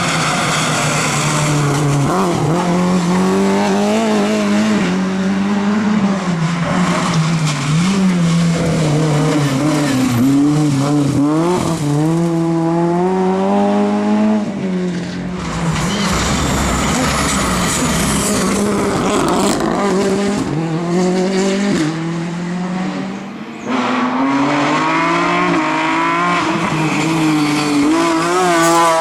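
Rally cars at full throttle on a special stage, their engines revving up and dropping back again and again through gear changes and corners, with tyre noise. The sound breaks off and changes abruptly twice as it cuts between cars.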